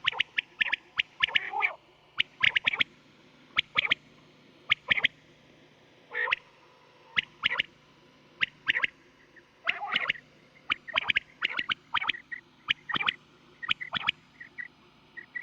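Quail calling: short, sharp notes in quick clusters of two or three, repeated at irregular intervals, over a faint steady low hum. A quail call recording of the kind played to lure quail for hunting.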